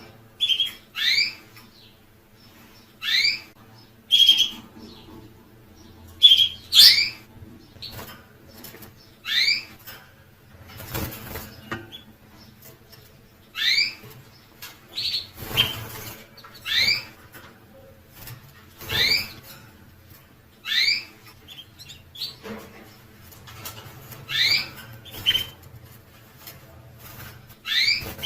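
A caged finch gives short, separate rising chirps every second or two. A few brief rustles fall between the calls.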